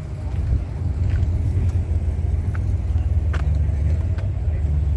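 A car engine idling close by: a steady low rumble, with a few faint clicks over it.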